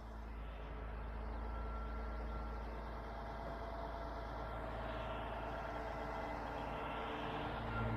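Engine running steadily at an even pitch, like a truck or heavy machine idling.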